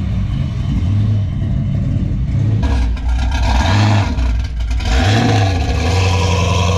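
A car engine idling with a deep, steady note and revved up briefly twice, a couple of seconds apart, in the second half.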